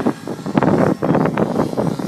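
Strong wind buffeting the microphone over a nitro-powered T-REX 700 radio-controlled helicopter in flight, its engine and rotor mostly buried under the gusts.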